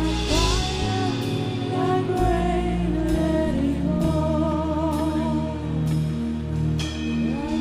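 Gospel worship music: sustained backing chords over low notes that change every second or so, with a wordless vocal line holding wavering notes.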